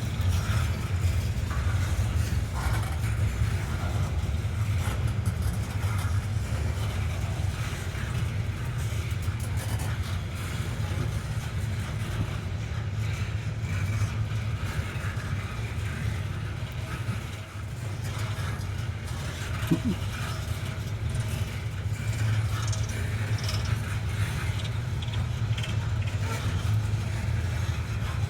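Steady low mechanical rumble with faint noise above it.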